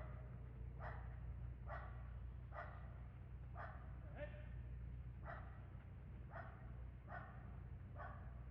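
A dog barking over and over, about one bark a second, faint over a steady low hum.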